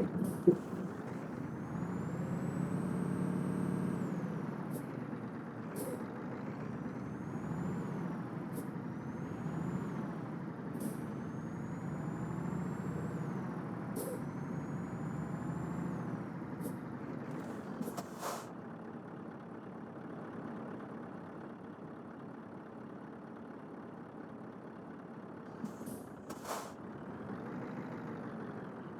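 Scania truck's diesel engine labouring along, its pitch rising and falling again and again, with a high whistle that climbs over each rise. A few short sharp sounds break in.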